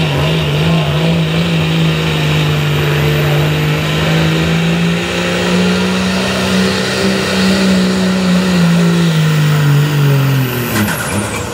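Pulling truck's engine held at high revs under full load during a pull, its pitch nearly steady and rising slightly midway, then falling away as the throttle comes off near the end.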